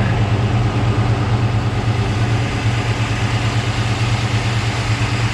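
Chevrolet 305 small-block V8 idling steadily just after an oil change, with good oil pressure.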